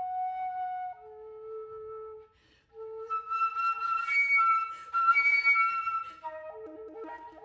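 Solo flute playing held notes, pausing briefly, then a loud high note laced with breath noise, and a run of quick, wavering lower notes near the end.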